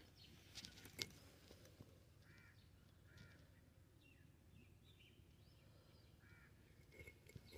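Near silence, with faint, short bird calls now and then and a couple of soft clicks about a second in.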